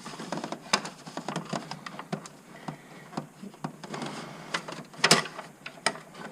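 Small metal clicks and taps of hardware and hand tools being worked on a battery tie-down fastener, irregular and light, with one louder knock about five seconds in.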